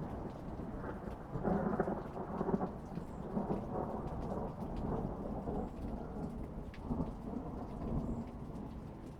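Thunder rolling over steady rain. The rumble swells about one and a half seconds in and dies away toward the end, while faint patters of raindrops continue throughout.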